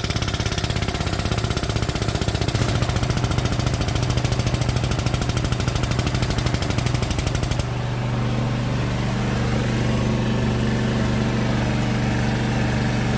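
The pump of a chain frame-puller running with a fast, even pulsing chatter as it tensions the chain against the car's front structure. It cuts off abruptly about two-thirds of the way through, leaving a steady low hum.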